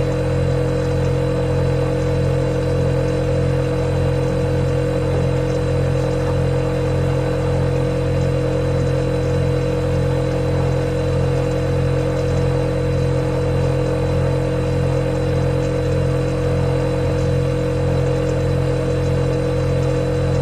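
Refrigerator running with a steady, unchanging low hum and a fainter higher tone above it.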